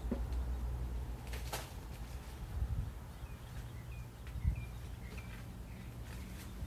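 Several short, faint bird chirps, mostly in the second half, over a steady low rumble.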